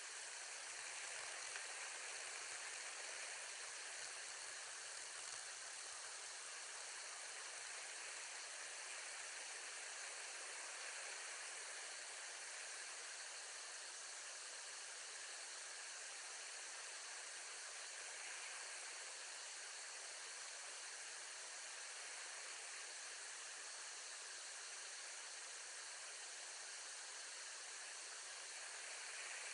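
Steady, even hiss with no distinct sounds in it: background noise on a wildlife camera's microphone.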